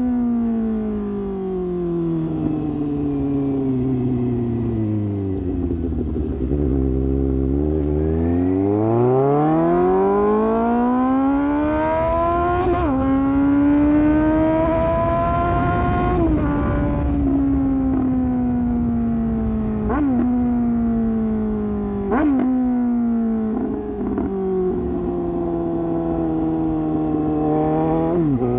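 Suzuki GSX-S750's inline-four engine through an aftermarket sport exhaust, under way. The engine slows almost to idle, then accelerates hard with a sharp drop in revs at a gear change about 13 seconds in, climbs again, then eases off, with several quick rev spikes in the second half as it shifts down.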